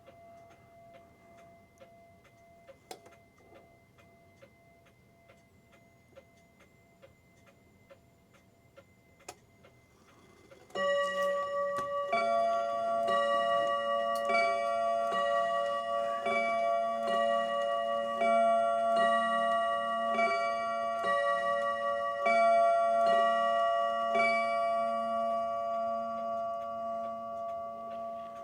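Antique New England Clock Company clock ticking steadily, then about eleven seconds in its strike starts ringing, about one stroke a second and each stroke ringing on into the next. The strike is not going off at the correct spot of the hand, so the hand needs adjusting.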